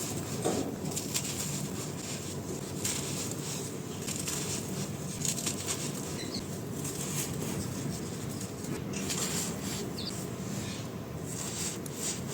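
Soft, crispy dry blocks being crumbled, a dense continuous crunching and crackling.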